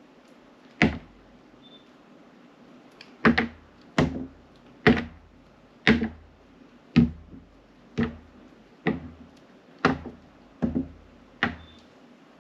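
A knife cutting through glycerin soap in eleven separate crisp cuts, each with a dull knock. After a single cut about a second in and a short pause, the cuts come roughly once a second.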